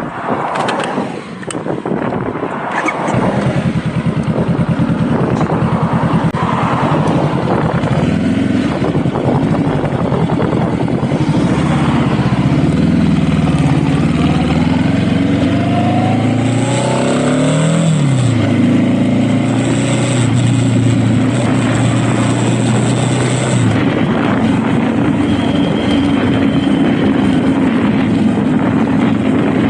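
Honda Rebel motorcycle engine being ridden: after a few seconds of scattered noise it pulls away, its pitch climbing and dropping back several times as it is worked up through the gears, then it settles to a steady cruise for the last few seconds.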